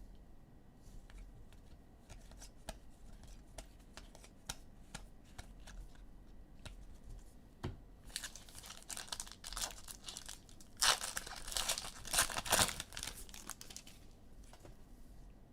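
Light scattered clicks of trading cards being handled, then a foil trading-card pack wrapper crinkling and being torn open, the loudest tearing and crumpling coming in short bursts in the second half.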